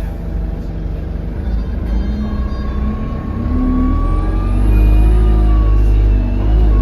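Alexander Dennis Enviro200 bus's diesel engine heard from inside the cabin, pulling harder and getting louder about four seconds in, with a steady whine and a high whistle rising and falling over it. The uploader puts the whistle down to a turbo leak.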